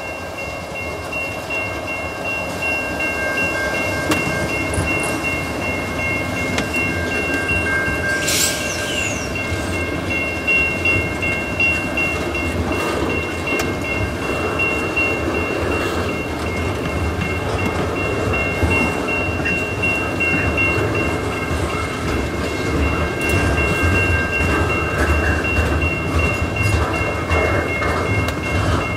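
Double-stack intermodal freight train's container well cars rolling slowly past as the train gets moving again from a stop, wheels rumbling and clattering on the rails and growing a little louder over time. Steady high tones from the level crossing's warning bell run underneath.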